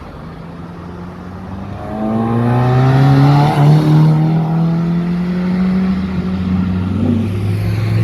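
A car's engine pulling away under acceleration, its pitch climbing slowly, loudest about three to four seconds in, over another engine idling steadily.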